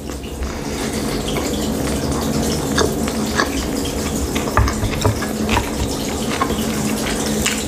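Close-miked chewing of a sushi roll: steady wet, sticky mouth sounds with scattered sharp smacks and clicks.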